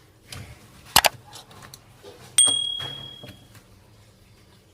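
A sharp click, followed about a second and a half later by a single high-pitched electronic beep that fades out over about a second.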